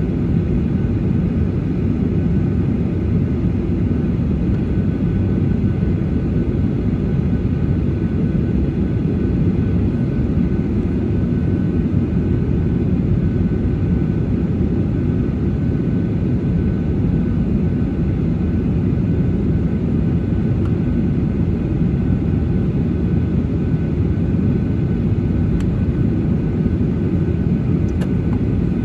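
Steady cabin rumble of a Boeing 737-800 taxiing, its CFM56-7B engines running at low power, heard from inside the passenger cabin. A faint steady whine rides above the low rumble.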